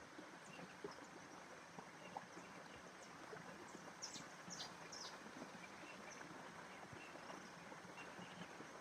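Faint outdoor nature ambience: a steady soft hiss with scattered small clicks, and a few short high chirps about four to five seconds in.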